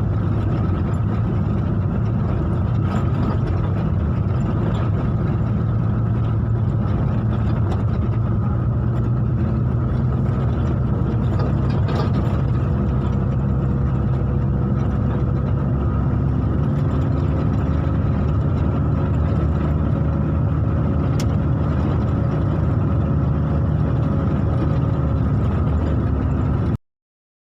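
Steady engine and road noise of a vehicle being driven, with a low, even hum that shifts slightly in pitch partway through. It cuts off abruptly near the end.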